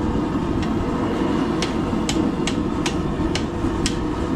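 Blacksmith's hammer striking hot steel bar stock on an anvil, about seven blows at roughly two a second, bending the bar into a holdfast. A steady low rumbling noise runs underneath.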